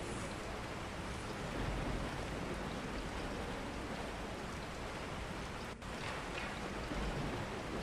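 Steady rain, an even hiss with no distinct drops standing out, cutting out for an instant about three-quarters of the way through.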